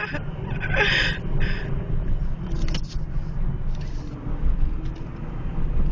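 Steady low rumble of road and engine noise inside the cabin of a moving 1999 Pontiac Grand Am, with a brief vocal sound about a second in and a sharp click near three seconds.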